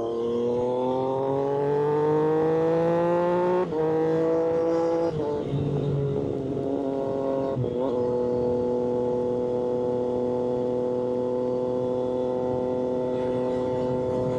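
Triumph Street Triple 765RS inline-three engine through an aftermarket SC-Project exhaust, accelerating. Its note rises for about five seconds with a brief cut and small drop about three and a half seconds in, like a quick-shifted upshift. It then falls off and from about eight seconds holds a steady note while cruising.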